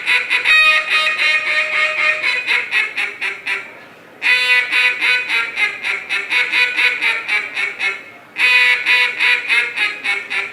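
A contest duck call, a hand-blown mallard hen call, played in rapid runs of quacking notes, three runs broken by short pauses about four and eight seconds in.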